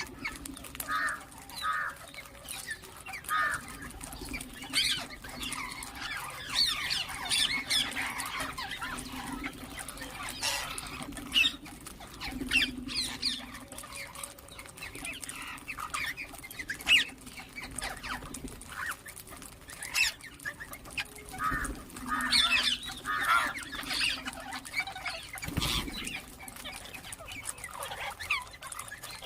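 Ringneck parakeets chirping and squawking in a string of short, sharp calls, over a steady low hum.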